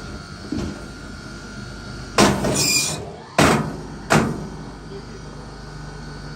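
Sharp wooden knocks from firewood being split and handled: a faint one about half a second in, then three loud ones from about two seconds in, each a little over a second apart. The first loud knock trails into a short scraping rattle. A low steady hum runs underneath.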